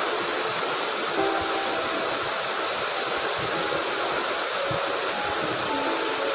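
Stream water flowing, a steady, even rush. A few faint short musical notes sound over it.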